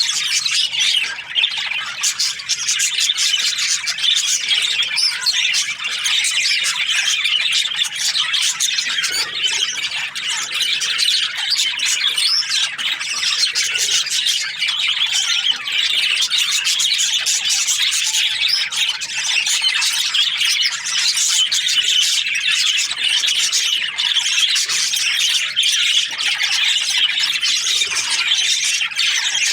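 Flock of budgerigars (parakeets) chirping and chattering without a break, many high calls overlapping.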